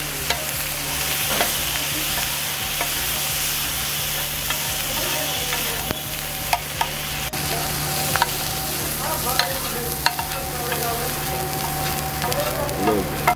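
Mutton tikka and brain frying and sizzling in desi ghee on a large iron tawa, with a steady hiss, while a metal spatula stirs and scrapes, clicking against the griddle now and then. A steady low hum runs underneath.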